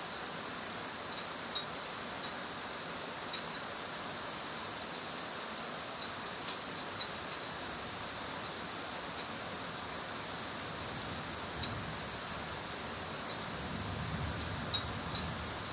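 Heavy rain falling steadily, a constant hiss with scattered sharp drops ticking close by. A low rumble joins in near the end.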